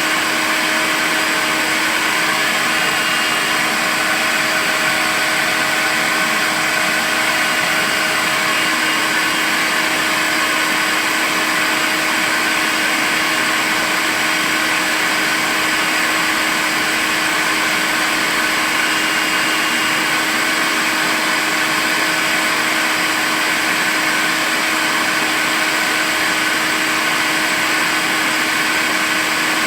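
Makita cordless vacuum cleaner running steadily at one speed: an unchanging motor whine over the rush of air, with no pauses.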